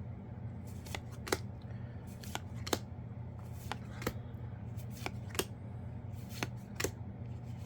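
Yu-Gi-Oh trading cards being flipped through one at a time from a freshly opened pack. Each card gives a short sharp snap, mostly in pairs about once a second.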